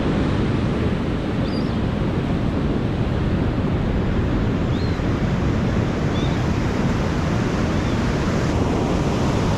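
Surf breaking on a beach, a steady wash of wave noise with wind on the microphone.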